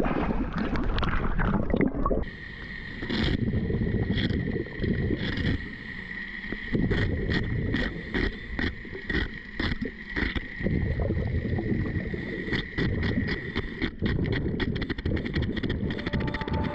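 Underwater sound around a scuba diver: the low bubbling rumble of the diver's exhaust bubbles, with many sharp crackling clicks and a steady faint high tone. A burst of dense noise in the first two seconds ends abruptly.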